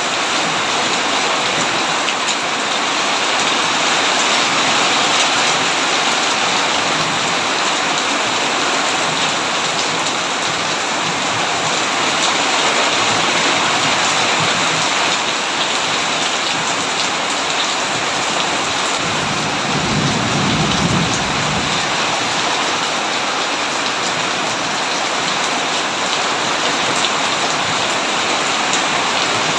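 Heavy rain drumming steadily on a tin roof, with one low roll of thunder swelling and fading about twenty seconds in.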